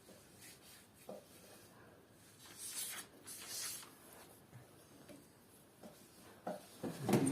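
Faint, scattered scratching strokes of drawing on paper, in short runs with pauses between them.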